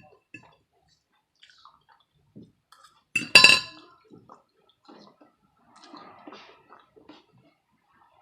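Cutlery and dishware clinking at a meal: small clicks and light handling sounds, with one loud ringing clink about three seconds in.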